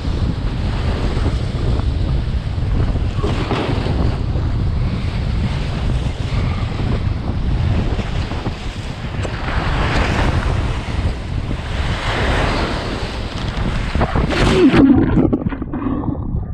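Gale-force wind buffeting the microphone with a heavy, constant rumble, over the wash of wind-driven waves that swells now and then. Near the end there is a louder gust with a brief pitched sound in it.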